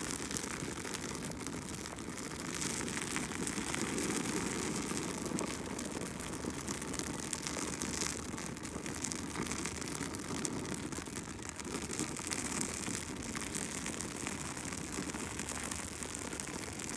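Bonfire burning, a steady rush with many small crackles and pops.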